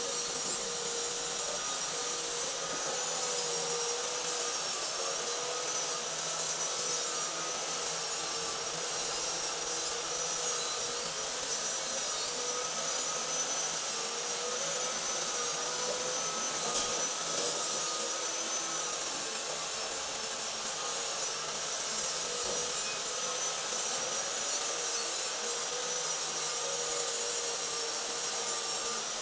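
Stick (arc) welding: the electrode's arc crackling and hissing steadily, with a faint steady whine underneath.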